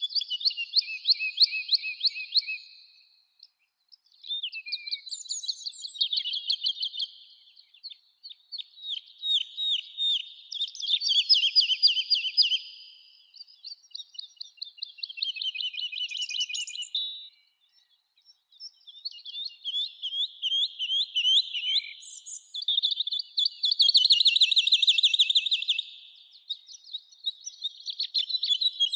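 A songbird singing: phrases of rapid trilled notes, each two to three seconds long, separated by short pauses.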